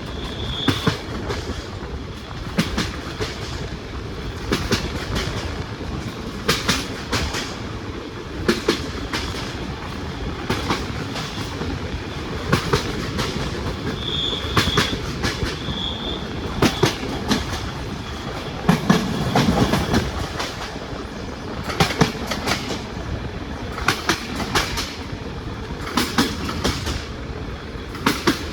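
Passenger train wheels clattering over rail joints: groups of sharp clicks about every two seconds over a steady rolling rumble. Brief high-pitched wheel squeals come near the start and again about halfway through.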